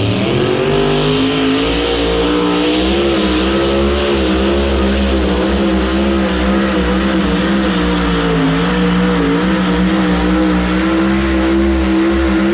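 Competition pulling engine at high revs under full load. Its pitch rises as the pull starts, then wavers up and down while it holds wide open, then levels off near the end.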